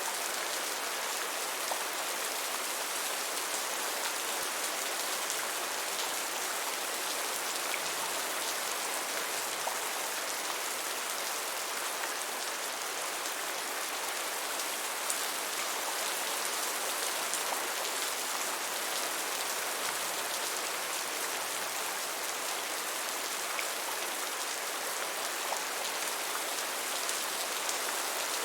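Steady rain falling: a dense, even hiss of countless drops, with faint ticks of single drops and hardly any low rumble.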